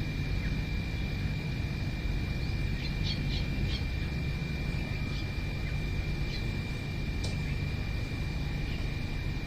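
A few faint, short bird chirps, scattered from about three seconds in, over a steady low rumble and a constant high-pitched tone.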